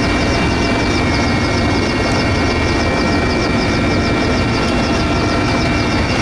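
Helicopter running steadily, a continuous loud drone with a fast, even rhythmic beat from the rotor.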